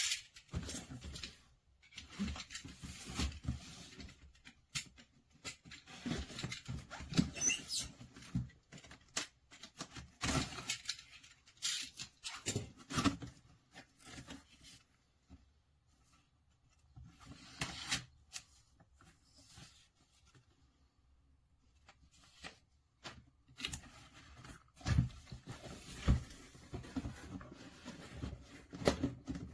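Irregular handling noises: bursts of rustling and scraping with light clicks and knocks, broken by short quiet gaps.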